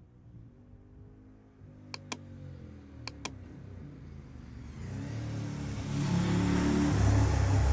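Moto Guzzi Griso 1200 8V V-twin running through a Termignoni exhaust with its dB killer fitted: a low rumble that grows steadily louder from about halfway and is loudest near the end. Two pairs of sharp clicks come about two and three seconds in.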